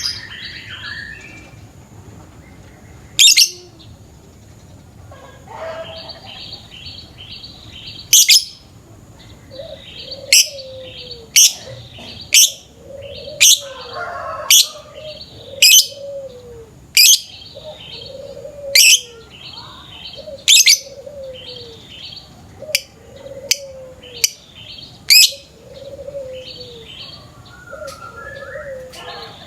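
Lovebirds chattering in the long, rapid stuttering trill called ngekek. From about a quarter of the way in, loud sharp shrieks come about once a second, each with a lower falling note beside it.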